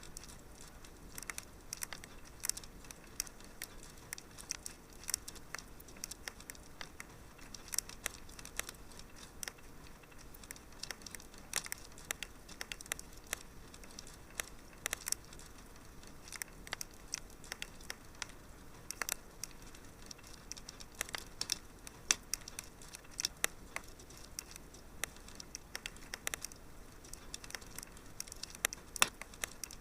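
Wood fire in a fireplace crackling, with many irregular sharp pops and snaps over a soft steady hiss.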